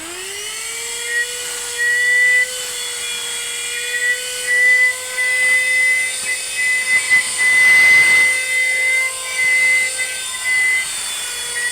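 AGARO CV1079 12-volt handheld car vacuum cleaner running: its motor winds up to speed at the start, then holds a steady high whine with hiss, its loudness swelling and dipping repeatedly as it sucks.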